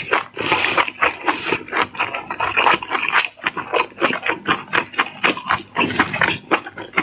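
Close-up eating sounds from seafood being eaten: rapid wet chewing and lip smacking, many short strokes a second with no pause.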